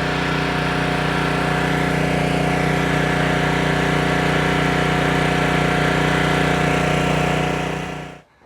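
A motor-driven machine running steadily at an even pitch, then cutting off shortly before the end.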